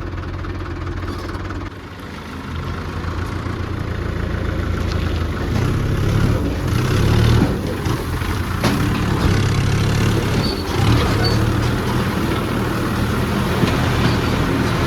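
JCB 3DX backhoe loader's diesel engine working. It drops briefly about two seconds in, then revs up and stays under varying load, with a few sharp knocks from the working machine.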